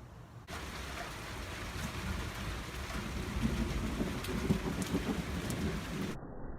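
Rain falling steadily, under a low rolling rumble of thunder that swells to its loudest around the middle. The sound starts abruptly about half a second in.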